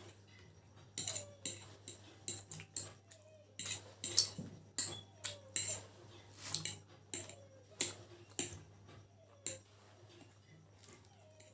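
Close-up eating of chicken chow mein: irregular wet chewing and smacking clicks, some in quick pairs, with now and then a short sliding mouth sound, fading out about two seconds before the end.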